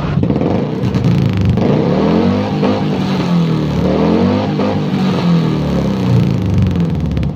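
Suzuki Carry Futura four-cylinder engine revved several times through its exhaust, the pitch rising and falling in repeated swells.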